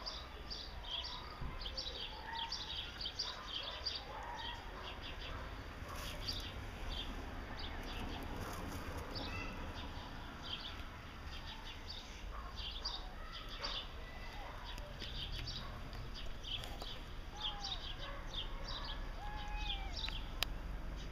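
Small birds chirping, many short high chirps repeating throughout over a faint steady outdoor hum.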